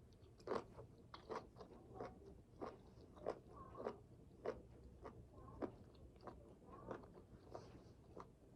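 Faint close-up chewing of crunchy food, with soft crunches about twice a second.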